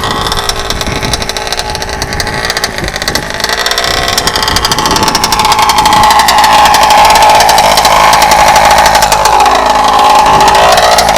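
RCMAX GT90 two-stroke petrol engine of a large-scale HPI Baja RC car running at high revs while the car is driven off-road. It is quieter for the first few seconds and louder from about six seconds in, and its pitch dips and rises again near the end.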